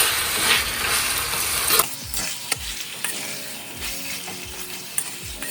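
Chicken pieces frying in hot oil in a pan and being stirred: a loud sizzle that drops suddenly about two seconds in, then a quieter sizzle with a few sharp knocks of the spoon against the pan.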